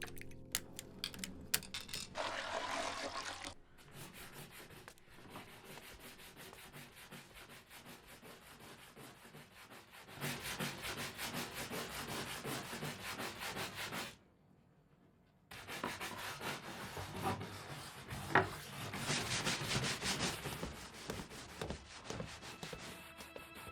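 A stiff scrubbing brush worked hard back and forth in rapid strokes, a steady scratchy scrubbing. It comes in several short stretches with abrupt changes, including a brief near-silent break about two-thirds of the way through.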